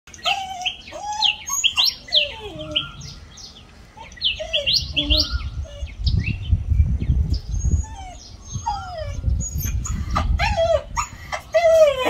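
Small songbirds chirping and twittering in many quick rising and falling notes, mixed with some lower, falling calls. A low rumble sits underneath from about five seconds in.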